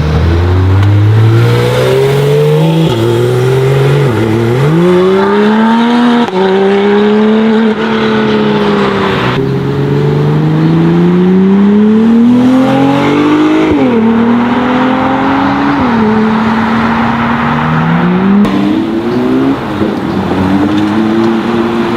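High-performance car engines accelerating hard under full throttle. The pitch climbs through each gear and drops sharply at every upshift, several times over. The overall sound changes abruptly twice.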